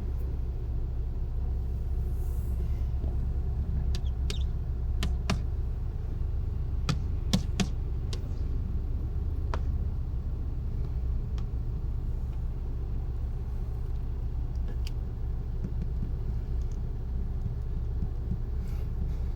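Steady low rumble of an idling car, heard from inside the car, with a few sharp light taps, mostly between about four and ten seconds in.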